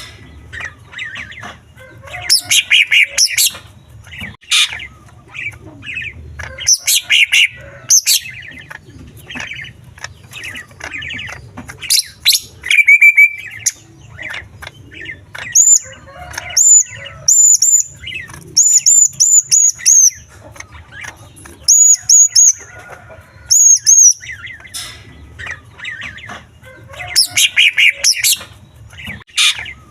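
Green leafbird (cucak ijo) singing in loud, varied bursts, its song filled with mimicked calls of small birds: rapid chattering phrases and runs of repeated high, clear whistled notes.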